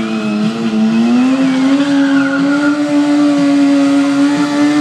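Stunt motorcycle engine held at high revs, its pitch rising a little about a second in and then holding steady, with tire squeal as the bike spins.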